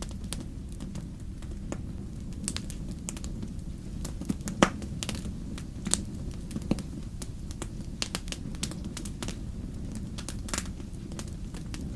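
Wood fire crackling in a fireplace: a steady low rumble of flame with many irregular sharp pops and snaps, the loudest pop about halfway through.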